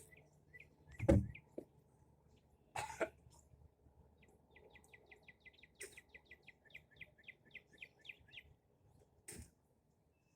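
A cough about a second in, with two more short throaty sounds near three and nine seconds. From about four to eight and a half seconds a bird calls a quick run of short high chirps, about five a second.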